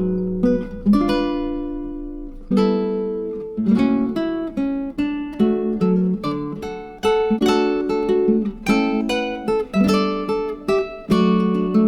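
Background music: acoustic guitar playing plucked and strummed chords, with sharp note attacks that ring and fade, in a steady rhythm.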